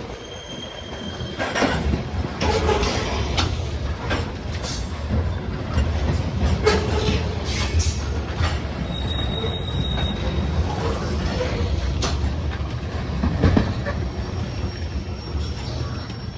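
Freight train cars rolling past: a steady low rumble with scattered clanks, and thin high-pitched wheel squeals several times.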